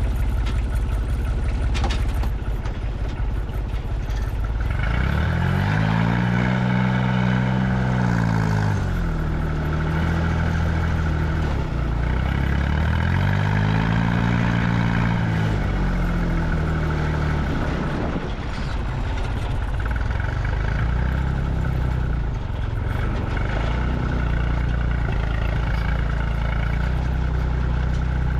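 Vehicle engine running with a light clatter. It revs up and settles back twice, as if working under load, then runs more steadily.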